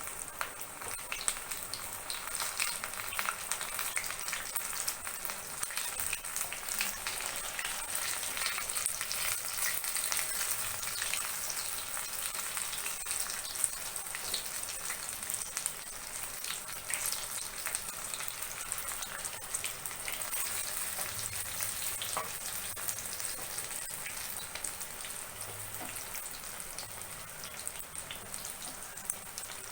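Breaded chicken lollipops deep-frying in hot oil: a steady sizzling hiss full of fine crackles and pops.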